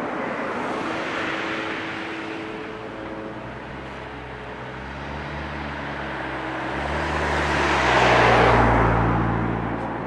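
Trackside noise of passing rail traffic. A train's rolling noise dies away over the first few seconds, then a low rumble with a steady hum builds, is loudest about eight seconds in, and fades again.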